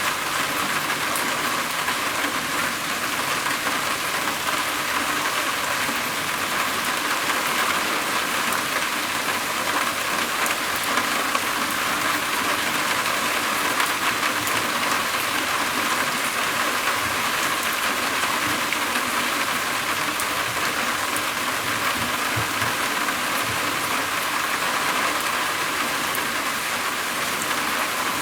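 Steady rain falling on a roof, a dense even hiss with fine patter of drops.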